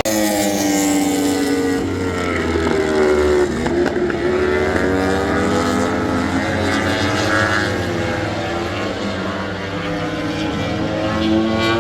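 Several MotoGP four-cylinder racing motorcycle engines at high revs, their pitch falling and rising as the bikes brake and accelerate through the gears, with a deep dip in pitch near the four-second mark.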